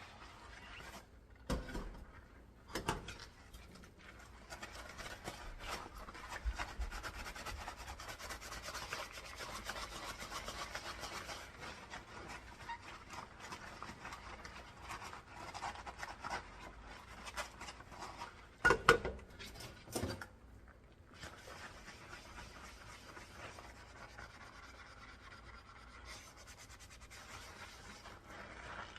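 Dishes being scrubbed by hand with a sponge, a steady rubbing, with a few sharp knocks of dishes against each other or the sink; the loudest two come about two-thirds of the way through.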